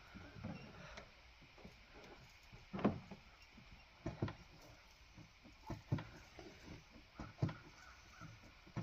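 A series of quiet knocks and thumps, about one every second and a half, inside a small boat cabin.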